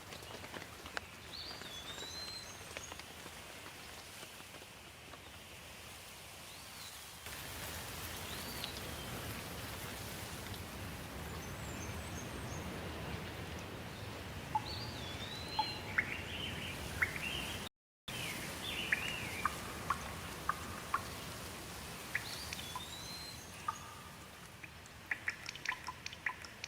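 Steady rain with birds calling over it in short, curving whistled notes. The rain grows louder about seven seconds in, the sound drops out for an instant about two-thirds of the way through, and sharp drip-like clicks come thick near the end.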